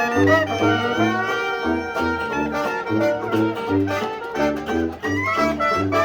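Traditional New Orleans jazz band playing an instrumental chorus: a tuba marks a steady beat-by-beat bass line under brass and reed melody lines, with a plucked rhythm instrument.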